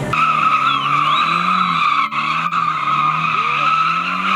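Car tyres squealing steadily as the car spins its wheels in a donut or burnout, with the engine held at high revs underneath, its note wavering slightly.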